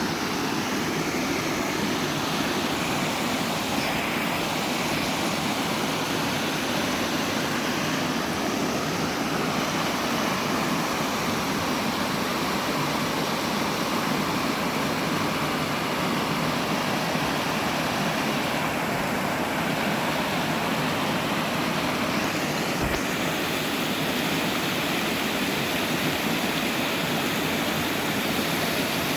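Steady rush of falling and running water from a waterfall and stream.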